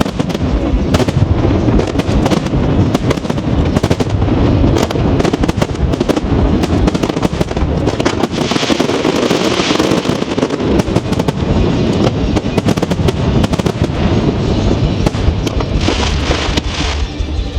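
Fireworks display in a continuous rapid barrage of booms and bangs, with stretches of dense high crackling about halfway through and again near the end.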